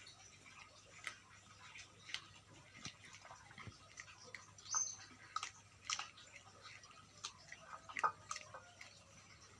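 Dogs chewing quail, with irregular sharp crunching clicks as the bones break, loudest about five, six and eight seconds in.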